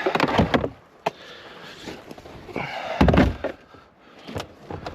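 Truck door being shut with a heavy thump about three seconds in, with lighter clicks and knocks before and after.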